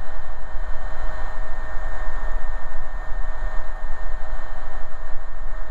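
Cabin noise of an AgustaWestland AW119 Koala single-turbine helicopter in steady cruise: an even hiss with two constant whining tones over a low hum.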